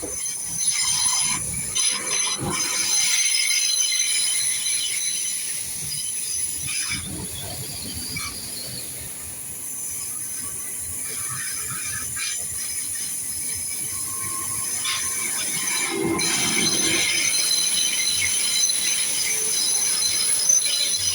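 Great Western Railway Class 800 passenger train passing slowly, its wheels squealing in a steady high-pitched screech over the rumble of the running train.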